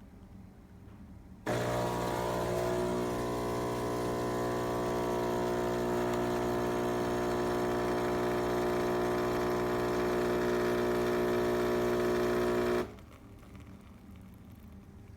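Philips 3200 Series automatic coffee machine's pump running steadily with a buzzing hum while dispensing, switching on suddenly about a second and a half in and cutting off after about eleven seconds.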